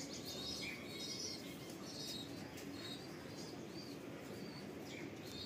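Birds chirping: short, high chirps come several times a second over a low, steady background.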